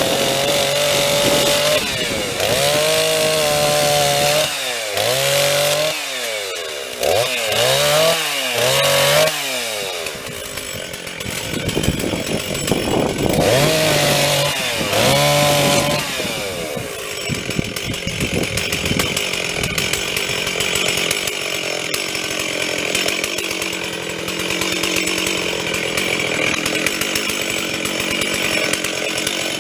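Stihl chainsaw running hard, its pitch blipping up and down several times in the first stretch, then settling into a rougher, steady sound under load as it cuts into a storm-downed tree for the rest.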